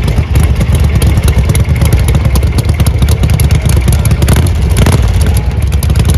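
Ducati Monster 1200's L-twin engine running while the motorcycle is ridden, a loud, steady low rumble.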